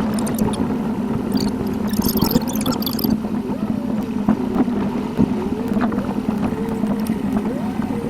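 A car's driving noise picked up by a dashcam inside the cabin, played back at eight times speed, so the engine and road noise become a steady drone with a fast, wavering, gurgling warble over it.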